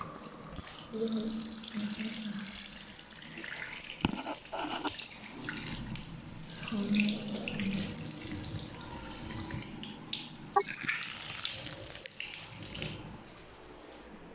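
Water running from a tap, splashing with a few knocks, then cut off suddenly near the end.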